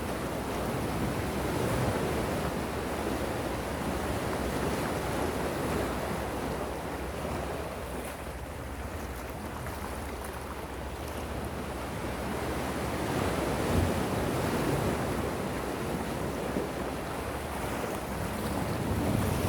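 Gentle sea waves washing onto the shore in a steady rush, easing off around the middle and swelling again later on.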